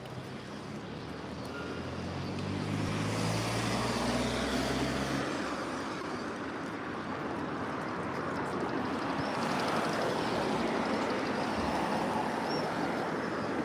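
A motor vehicle's engine passing, growing louder over the first few seconds, followed by a steady rushing noise like traffic or wind.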